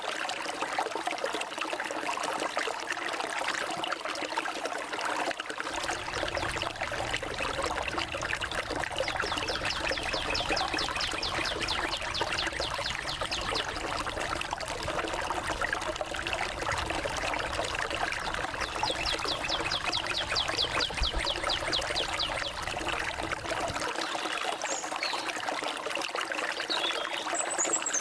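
Forest stream trickling and splashing steadily. Twice a rapid high trill runs for several seconds over it, and a few short, high bird chirps come near the end.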